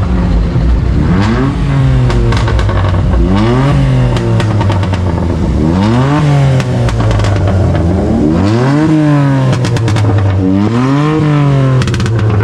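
Car engine revved again and again over its idle, the pitch rising and falling back with each blip of the throttle about every one to two seconds, with some crackles among the revs.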